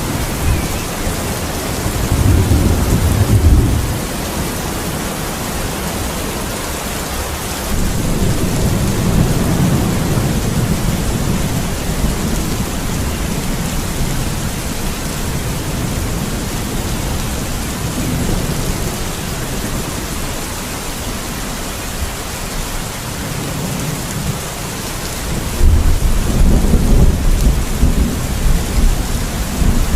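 Steady heavy rain hissing, with thunder rumbling low several times: a rumble a couple of seconds in, a longer roll around the ninth second, and the loudest rumbles near the end.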